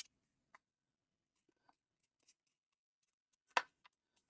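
Small square of patterned paper being folded and creased by hand: faint soft ticks of paper handling, with one sharper crackle about three and a half seconds in.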